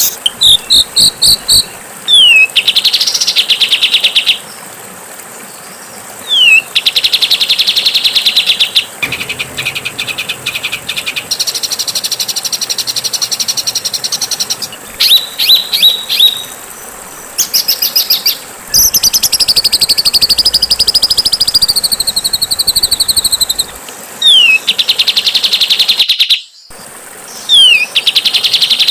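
Songbird song from a bird-song training (masteran) recording, in repeating phrases: a quick down-slurred note followed by a fast, dense buzzing rattle, which comes back several times, with runs of short sharp notes and one long wavering whistle in between.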